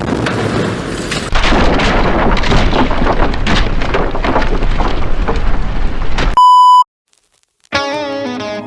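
Rough crackling noise for about six seconds, cut off by a short, very loud beep tone. After a moment of silence, guitar music starts near the end.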